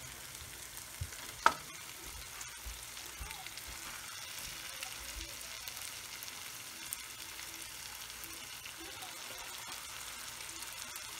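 Oil and onion-tomato masala sizzling steadily in a frying pan as marinated chicken drumsticks are laid in one by one, with a sharp knock about a second and a half in.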